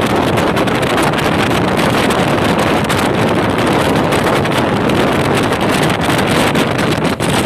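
Steady, loud rush of wind buffeting the microphone over the running rumble of a fast-moving train.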